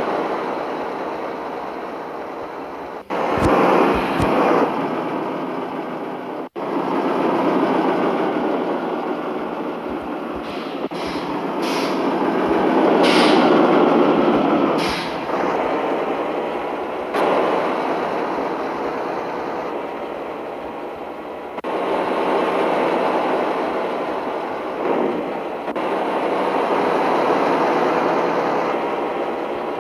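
Mitsubishi Fuso truck with an empty cargo bed on the move: a steady rumble of engine and road noise. It breaks off and restarts abruptly several times.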